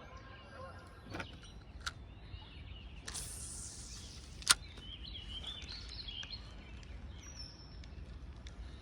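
A fishing cast: fishing line hissing off the reel for about a second and a half, ending in a sharp click as the reel is engaged, with a few lighter knocks earlier. Birds chirp in the background.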